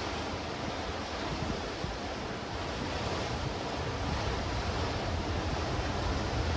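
Sea waves washing against black rocks and stones on a rocky shore, a steady rushing with no single crash, with wind rumbling on the microphone.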